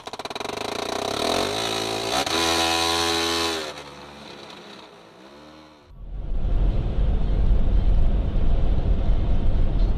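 A motor vehicle's engine revving, its pitch rising and then rising and falling over several seconds. It cuts off suddenly about six seconds in and gives way to a loud, steady low rumble of driving noise.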